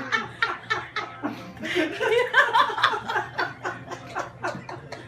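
Several people laughing and chuckling, with bits of muttered speech mixed in.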